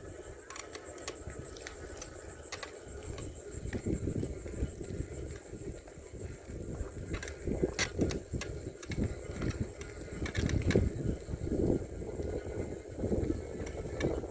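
Wind buffeting the microphone during a bicycle ride, an uneven low rumble that rises and falls, with scattered sharp clicks and rattles from the bike.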